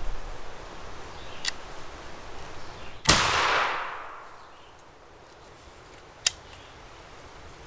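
A single shotgun shot about three seconds in, its report echoing away over about a second. Smaller sharp clicks come before and after it.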